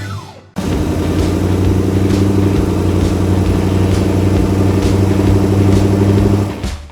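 A vehicle engine running steadily with a low, even hum. It starts about half a second in, after a short falling sound, and cuts out just before the end.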